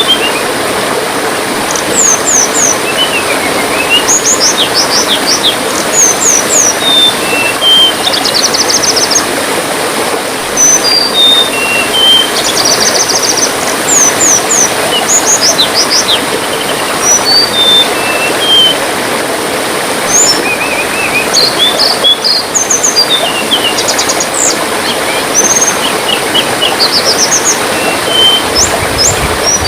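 A songbird, the tledean, calling over steadily trickling water: short high chirps, quick slurred notes and fast trills, repeated every second or so.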